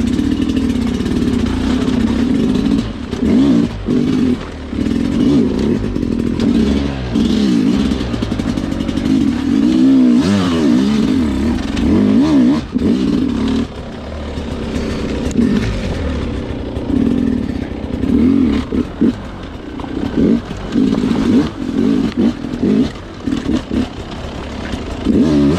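Sherco two-stroke dirt bike engine revving in quick on-off throttle blips, its pitch rising and falling over and over, as it is ridden through technical terrain.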